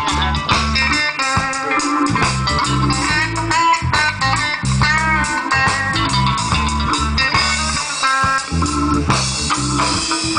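Live reggae band playing, an instrumental passage: electric guitar lines over a pulsing bass and drums.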